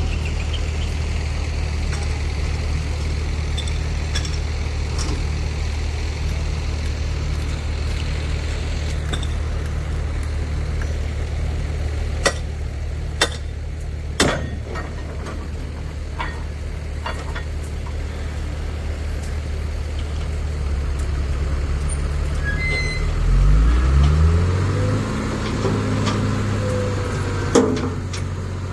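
Dumper truck's diesel engine idling steadily, with a few sharp clicks in the middle, then revving up about two-thirds of the way through and holding at a higher speed.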